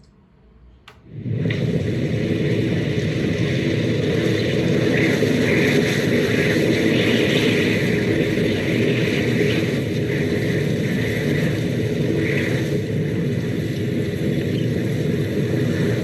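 Blizzard wind, a steady rumbling rush of noise that comes in suddenly about a second in and holds.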